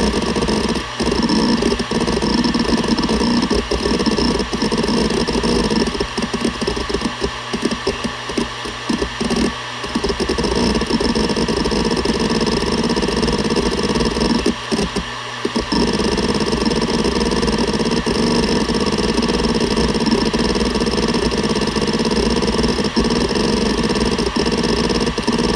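Seagate Barracuda ES.2 ST31000340NS 7200 rpm hard drive seeking continuously: a dense chatter of head-actuator movements over the drive's steady spindle hum. The seeking breaks off briefly a few times, longest about fifteen seconds in.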